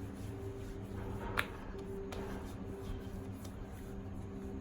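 A single sharp click about a second and a half in, with a few fainter ticks, over a steady low hum.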